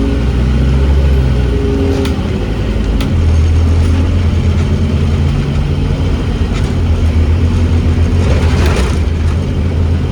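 Scania OmniCity double-decker bus's five-cylinder diesel engine running under way, heard from inside the bus as a steady low drone that shifts a little in pitch. A couple of sharp clicks come about two and three seconds in, and a brief hiss near the end.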